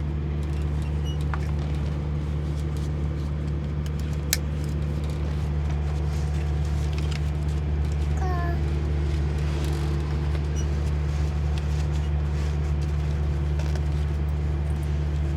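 Peterbilt 379's diesel engine idling with a steady low drone. There is a sharp click about four seconds in and a brief high squeak about halfway through.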